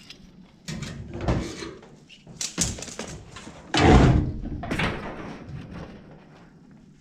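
Handling noises: a series of knocks and thuds with rustling as equipment is moved about, the loudest a heavy thud about four seconds in.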